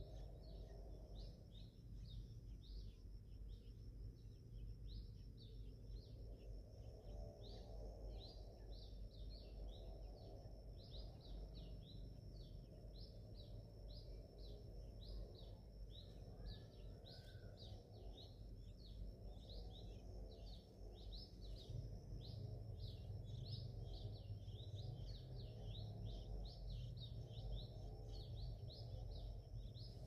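Faint, rapid high chirps from small birds, two or three a second and repeating without a break. Under them runs a steady low background rumble and a thin, steady high whine.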